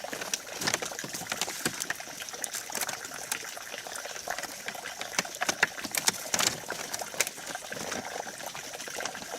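Light clicks and knocks of bamboo panels and poles being handled and fitted, irregular and sharpest a little past the middle, over a steady hiss.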